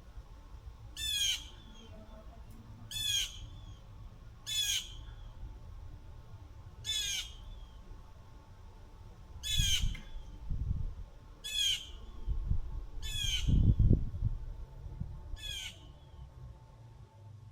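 A bird gives a harsh, squawking call over and over, eight short calls about two seconds apart. Low rumbles come in under the calls about ten seconds in and again, loudest, around thirteen to fourteen seconds.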